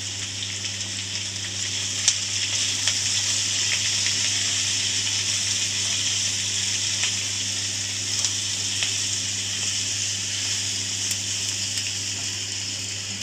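Sliced bell peppers and onions sizzling in hot oil in a steel kadhai as they are stir-fried with a wooden spatula, with a few light clicks of the spatula against the pan. A low steady hum runs underneath.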